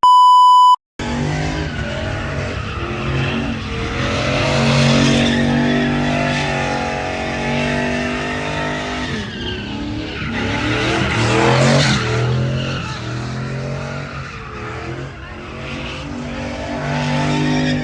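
A short bleep at the very start, then a vehicle engine revving loudly with its pitch wavering, over a hiss of tires squealing and spinning on pavement, swelling twice.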